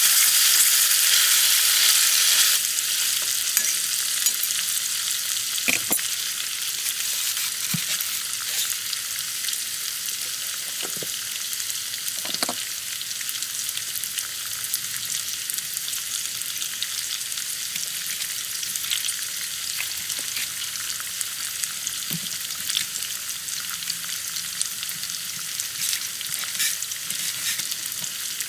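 Food sizzling in a hot frying pan, a steady high hiss that turns quieter about two and a half seconds in. A few short taps from a utensil against the pan.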